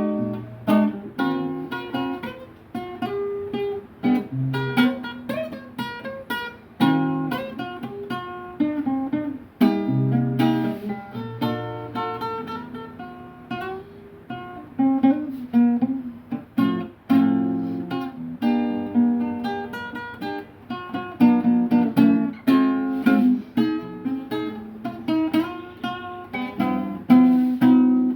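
Improvised guitar playing, a steady run of strummed chords and picked single notes.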